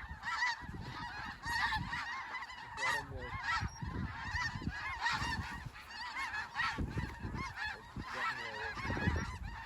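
A large flock of snow geese calling continuously: a dense chorus of many overlapping, short, high-pitched honks.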